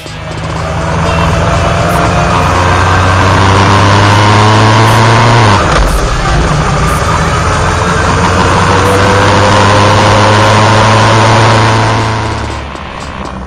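Yamaha XJR1300's inline-four engine accelerating, revs climbing steadily, with a gear change about six seconds in and a second climb through the next gear before the throttle is rolled off near the end. Heavy wind rush throughout.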